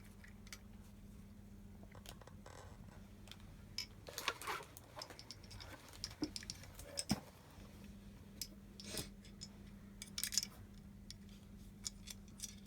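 Faint scattered clicks, taps and rustles of hands working a timing belt through an Ender 3 V2 3D printer's axis motor and gear, with a steady low hum underneath.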